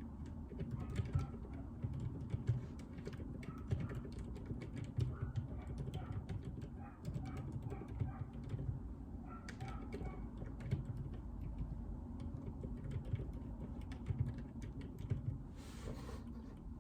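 Steady, irregular typing on a mechanical keyboard with Outemu Silent Peach linear switches: soft, damped keystrokes with low thuds and no sharp clicks. A brief rustle near the end.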